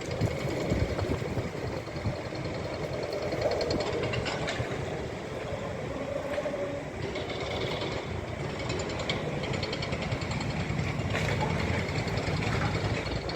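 Steel roller coaster train running along its track on an empty test run: a steady rumble that rises and falls.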